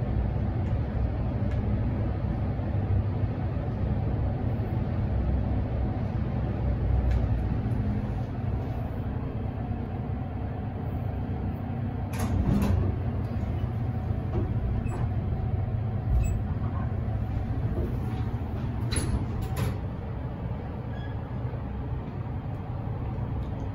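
OTIS high-speed traction lift running: a steady low rumble of the car in motion, with short sharp clicks and knocks about halfway through and again a few seconds later.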